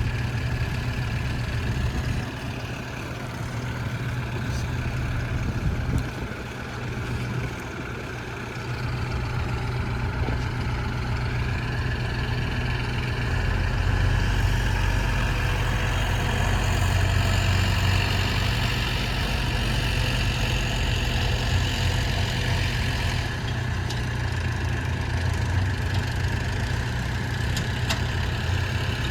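Diesel engines of a JCB backhoe loader and tractors running at a worksite, steady at idle with the level dropping twice early on and rising under load about halfway through.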